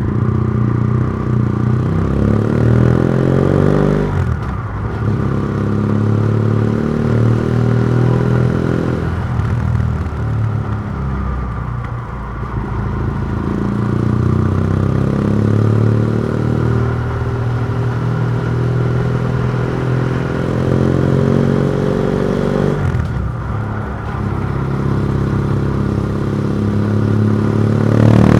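BMW F700GS parallel-twin engine through a MIVV titanium exhaust with its dB killer removed, riding and accelerating in gear. The engine note climbs and falls back sharply several times, about four, nine and twenty-three seconds in.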